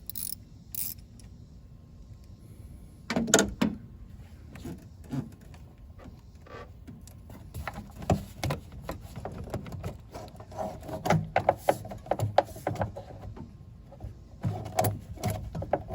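Scattered clicks and knocks of a socket wrench and loosened engine-bay parts being handled as the air intake is taken off, with one louder knock about three seconds in and busier clicking in the second half.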